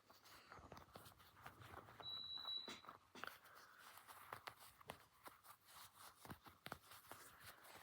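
Fingernails scraping and scratching along the stitched seams of a plush dinosaur toy: soft, irregular little scratches and clicks. A brief high-pitched tone comes in about two seconds in.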